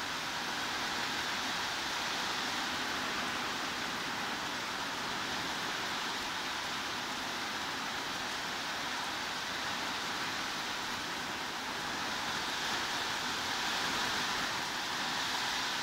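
Heavy rain falling as a steady, even hiss, used as white noise, swelling slightly louder in the last few seconds.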